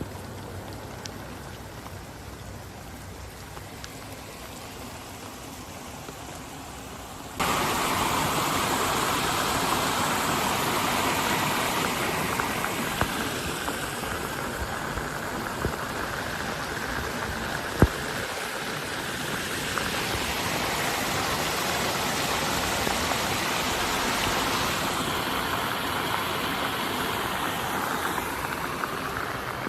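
Heavy rain and rushing floodwater as a steady noise, quieter at first, then a sudden jump to louder rushing water about seven seconds in. One sharp knock sounds roughly two-thirds of the way through.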